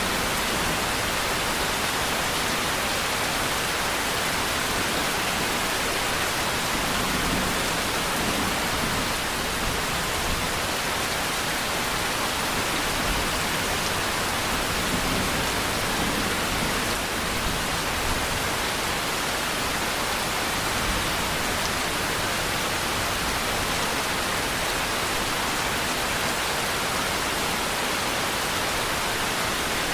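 Steady, even rainfall: a continuous hiss of rain with no breaks or single drops standing out.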